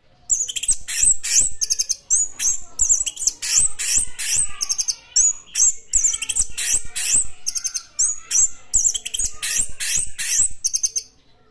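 Orange-headed thrush (anis merah) in full song: a long, loud run of rapid high-pitched phrases with only brief breaks, stopping shortly before the end.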